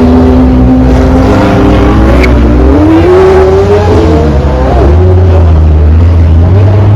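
Loud performance-car engines: one accelerates, its pitch climbing steadily for about two seconds midway, over a deep steady engine rumble.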